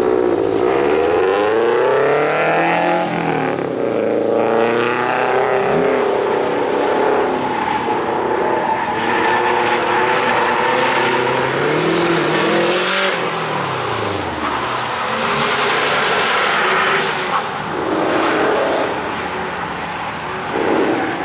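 Subaru Impreza hatchback's engine revving hard from a launch, its pitch climbing and falling through the gears, then working up and down again under hard driving, with tyre noise from hard cornering.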